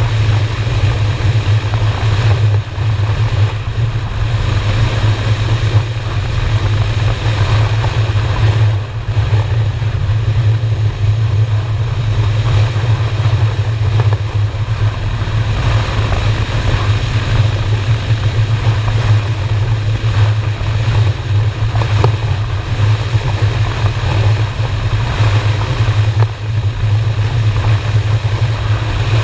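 Honda Shadow V-twin motorcycle engine running steadily at a cruise, its low drone holding even, with wind rushing over the helmet or bike-mounted microphone.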